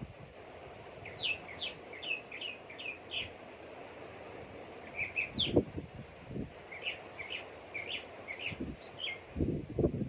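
A small bird singing runs of short, high chirps that slur downward, over a steady hiss of distant surf. Low rumbles come about halfway through and again near the end.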